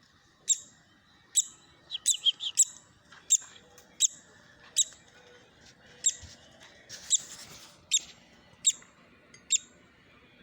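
Baby woodpecker giving repeated short, high-pitched begging calls, about one every second, with a quick flurry of calls about two seconds in.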